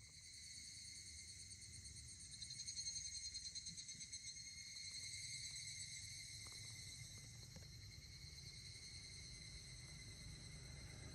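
Insects calling in a steady, high-pitched trilling chorus that pulses more strongly a few seconds in, over a faint low rumble; it cuts off suddenly at the end.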